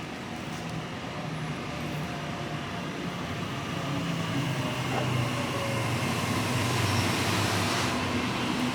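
Electric passenger train approaching the platform, its rumble growing steadily louder.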